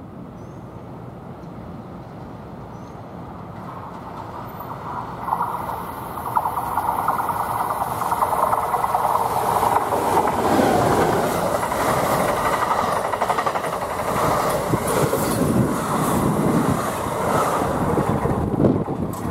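Passenger train approaching and passing. Its noise builds from about four seconds in to a loud, steady rush of wheels on rail, with clicking from the wheels later on.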